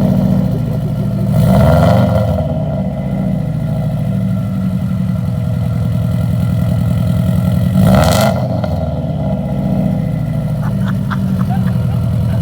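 Subaru WRX's turbocharged flat-four running through a newly fitted aftermarket exhaust, loud and low, idling with two short revs, one about two seconds in and one about eight seconds in.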